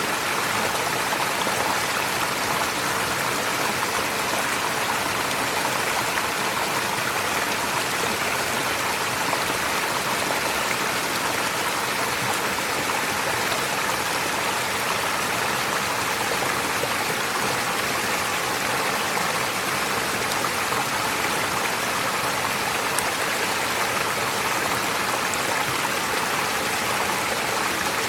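A stream flowing: a steady, even rush of water.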